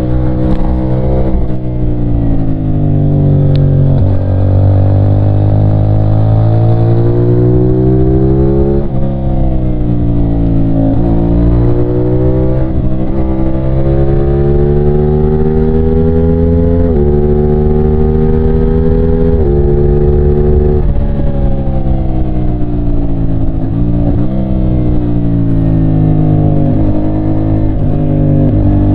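CFMOTO 450SR's 450cc parallel-twin engine under way, revving up through the gears. The pitch climbs steadily, then drops suddenly at each upshift, several times over, with stretches where it falls away as the throttle is rolled off.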